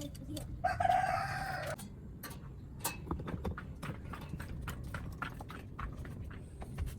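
A single pitched cry about a second long, about half a second in, over scattered clicks and knocks and a steady low rumble.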